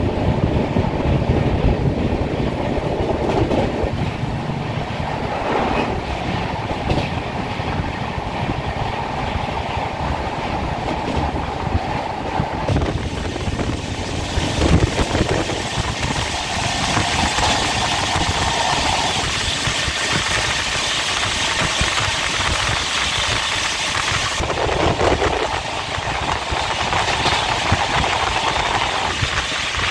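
Passenger train running along the track, heard from aboard: a steady rumble of wheels on rails with scattered clickety-clack knocks over the rail joints. It grows brighter and hissier for about ten seconds in the middle.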